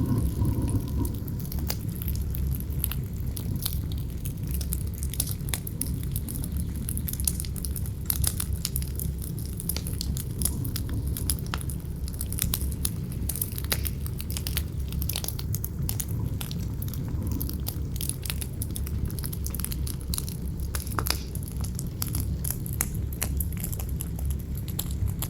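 Campfire burning, wood crackling and popping in many sharp, irregular snaps, over a steady low rumble of wind.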